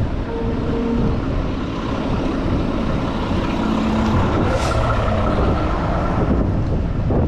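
City street traffic heard from a moving bicycle: engines of passing cars and a heavy vehicle over a steady rush of wind on the microphone. A short hiss comes about four and a half seconds in.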